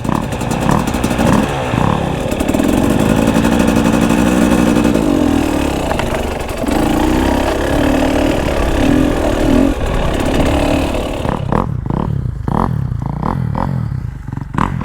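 Dirt bike engine running under way on a trail, revs rising and falling with the throttle, with wind rushing over the microphone. In the last few seconds it eases off to low, uneven revs and the wind noise drops away.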